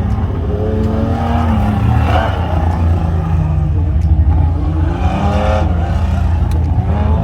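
Car engine revving up and down several times over a steady low rumble.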